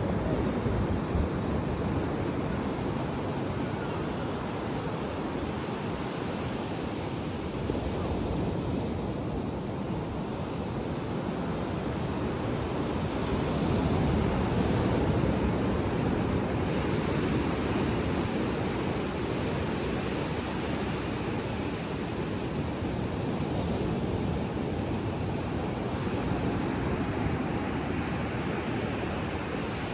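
Pacific Ocean surf washing onto a beach: a steady rushing that swells a little louder about halfway through.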